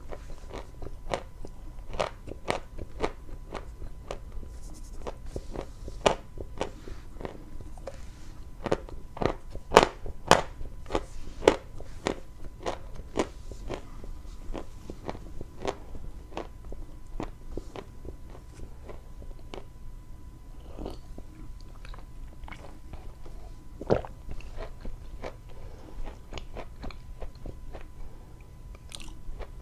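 Close-miked biting and chewing of dry, crunchy chalk: a run of sharp crunches, dense and loud through the first half, then fewer and softer.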